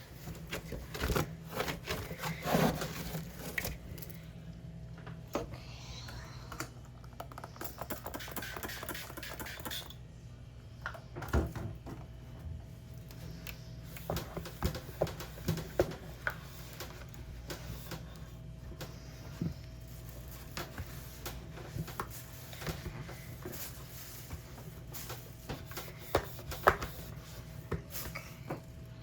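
Irregular clicks, knocks and wiping sounds from cleaning the inside of a mini fridge by hand, with a stretch of scrubbing partway through, over a steady low hum.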